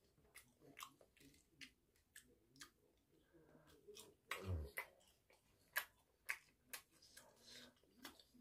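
Close-up mouth sounds of a person chewing crunchy breaded fried bites: a run of small crisp clicks and crackles. About halfway through comes a brief low hum of the voice, dropping in pitch, the loudest moment.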